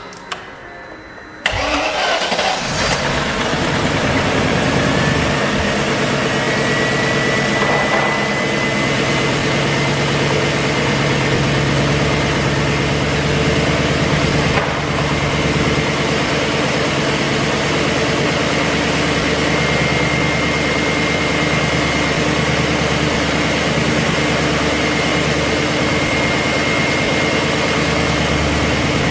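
BMW E38 engine starting about one and a half seconds in, then running at a steady idle, with a thin, high, steady whine setting in a few seconds later.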